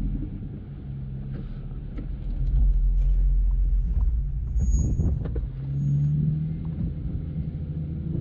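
Jeep Wrangler Rubicon engine running at low speed on an off-road trail, a low drone that gets louder about two and a half seconds in, with scattered clicks and knocks over it.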